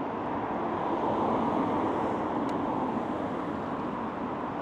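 Road traffic noise: a steady rush of passing vehicles, swelling a little about a second in.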